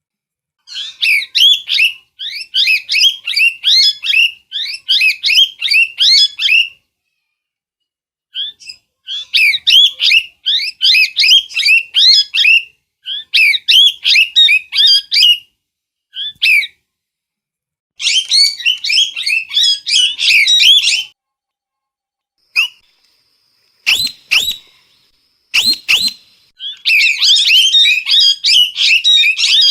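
A parrot calling in bouts of fast, repeated, high chattering notes, each bout a few seconds long and broken off by short silent gaps. Two sharp clicks sound in a lull near the end, before the calling resumes.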